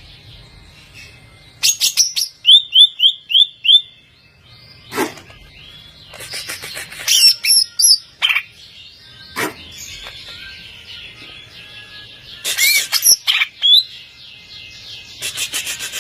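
Green leafbird (cucak ijo) singing in loud bursts of varied phrases with short pauses between: quick runs of notes, a series of five repeated downslurred whistles, and single sharp downsweeping notes.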